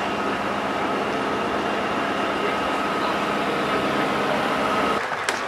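Steady mechanical drone with a constant high whine over it, changing abruptly shortly before the end.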